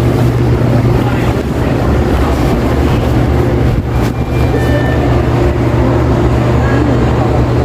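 Supermarket shop-floor ambience in the butcher and cold-cuts area: a steady low hum under a constant wash of shop noise, with a few faint short tones about halfway through.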